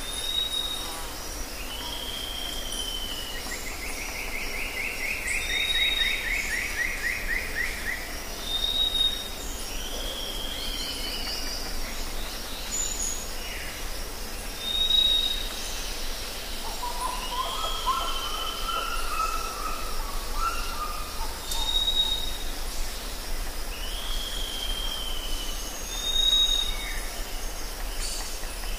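Songbirds calling over steady outdoor background noise: repeated short high whistles and falling notes every couple of seconds, with a fast trill a few seconds in and a lower warbling phrase about two-thirds of the way through.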